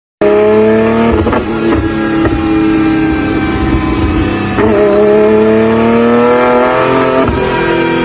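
Nissan GT-R accelerating hard through the gears: the engine note climbs, drops at each shift and climbs again. Sharp exhaust pops crack out several times, mostly at the shifts.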